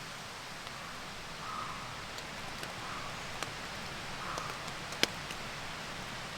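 Steady rain hiss, with a few scattered sharp ticks; the loudest is about five seconds in.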